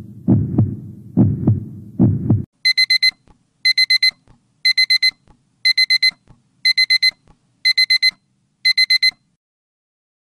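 Heartbeat sound effect, double thumps about once a second, which stops about two and a half seconds in and gives way to a digital alarm clock beeping in quick bursts of four, about one burst a second, seven bursts in all.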